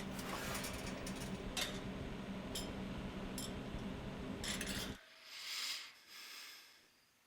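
Light clicks and clinks of small hard objects being handled over a steady hum. About five seconds in the sound cuts abruptly to a much quieter background with two soft rushing sounds.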